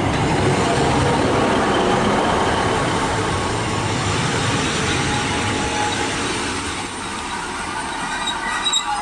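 Two coupled British Rail Class 150 Sprinter diesel multiple units running past close by, a steady rumble of wheels on the rails and the train's machinery. It eases off a little after about seven seconds, and faint high squeals come in near the end.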